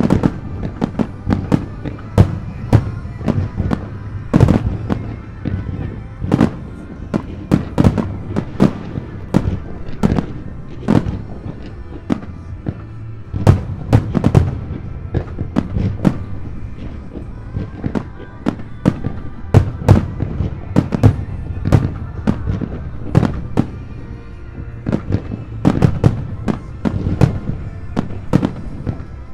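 Aerial fireworks shells bursting in rapid, continuous succession, dozens of sharp booms and bangs close together, with music playing behind them.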